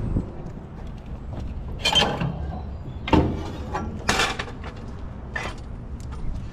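Four loud metallic clanks and rattles, roughly a second apart, of mechanical gear being handled, over a steady low rumble.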